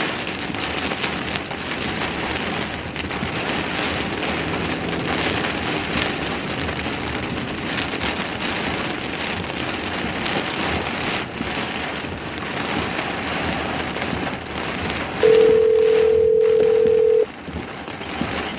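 Heavy rain falling on a vehicle, a steady hiss throughout. Near the end a steady telephone tone sounds once for about two seconds, like the ringback of an outgoing call.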